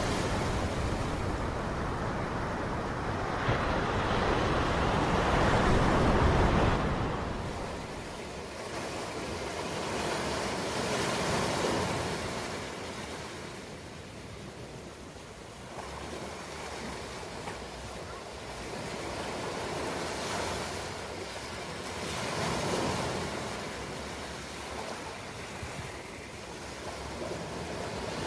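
Ocean waves breaking and washing on a shore, a steady surf that swells and ebbs, with the biggest wave about five seconds in and smaller ones later.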